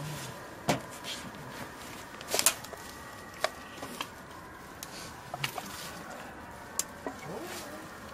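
Scattered knocks and clicks of wood and debris being shifted by hand, irregular and a few seconds apart, the loudest about two and a half seconds in.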